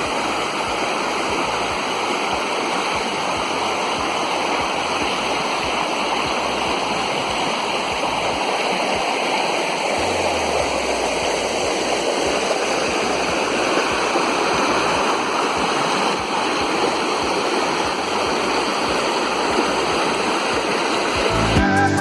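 River water flowing and splashing, a steady rushing sound.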